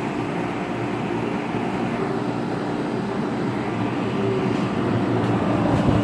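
A 2004 ICP 3-ton central air conditioner condensing unit running: the GE condenser fan motor rushes air and the Copeland reciprocating compressor hums steadily with a constant tone. It grows a little louder near the end.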